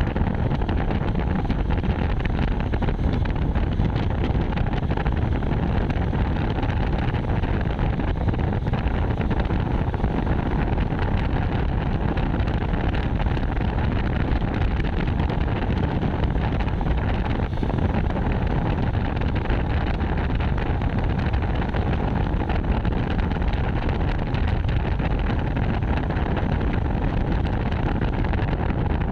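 Steady wind rush over the microphone mixed with the running and road noise of a moving bike, unchanging throughout.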